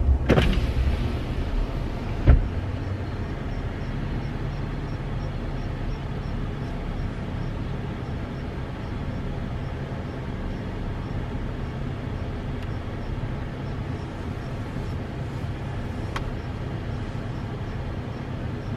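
Steady hum of a truck's idling engine and air-conditioning fan heard inside the cab, with a single sharp knock about two seconds in and faint, evenly spaced ticking after it.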